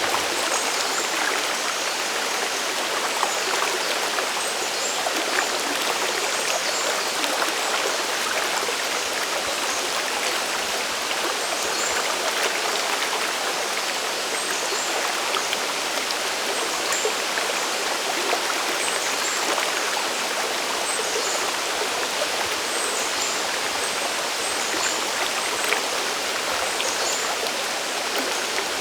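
Steady rush of a mountain stream and waterfall, water falling and running over rocks without a break.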